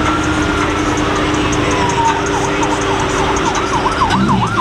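Emergency vehicle siren: a slow wail falling in pitch, which about two seconds in switches to a fast up-and-down warble that speeds up.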